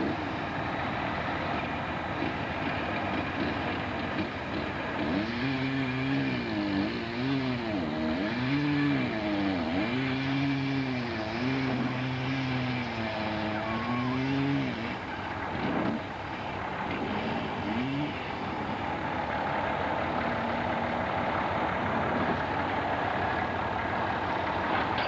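Sawmill engine running steadily. For about ten seconds in the middle, a pitched hum dips and rises again and again.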